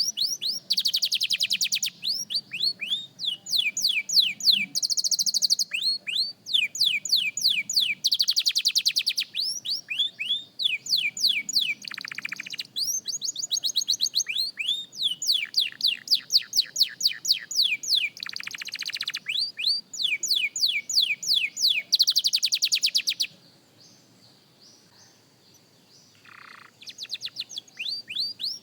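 Young canary singing its practice song: quick runs of repeated down-slurred whistled notes alternating with fast buzzing trills. It breaks off for a few seconds near the end, then starts up again.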